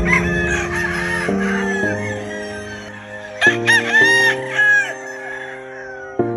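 Gamefowl roosters crowing over a steady background music track, with several crows in quick succession about halfway through.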